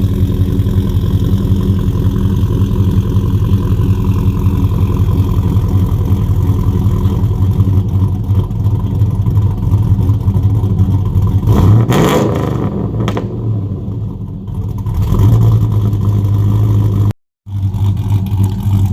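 2007 Chevrolet Avalanche's V8 engine running steadily at idle, with a brief rise and fall in engine speed about twelve seconds in.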